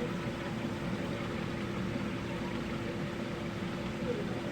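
Steady background hum and hiss with a faint constant tone and no distinct events.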